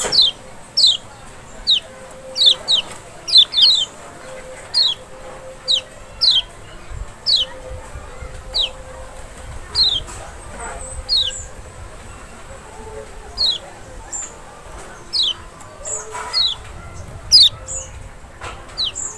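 Lemon-bellied white-eye (Lombok kecial, Zosterops chloris maxi) calling: short, sharp, high notes that slide downward, repeated irregularly about once or twice a second.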